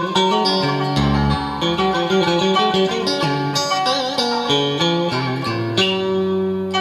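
Instrumental music led by a plucked guitar playing a running melody over a bass line.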